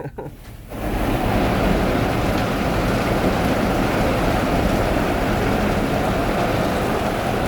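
Automatic car wash working over the van, heard from inside the vehicle: a loud, steady rush of water spray or wash equipment starts about a second in and keeps going.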